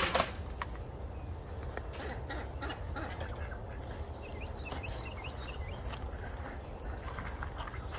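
Farmyard ambience: a steady low rumble with a few sharp knocks, and faint short bird calls from poultry in the middle.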